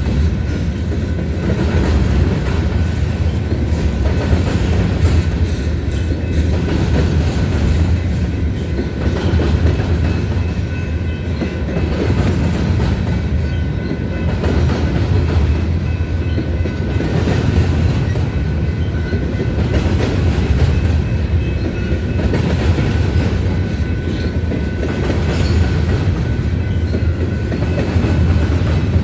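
Grain train's freight cars rolling past at steady speed: a continuous rumble of steel wheels on rail with irregular clickety-clack over the rail joints.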